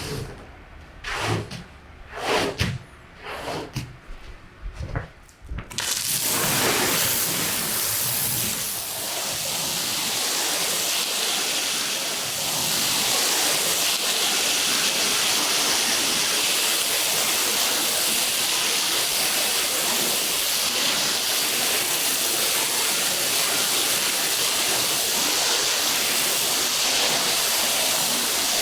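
A few separate knocks, then about six seconds in a steady rush of spraying water starts and runs on, typical of a water jet rinsing a carpet.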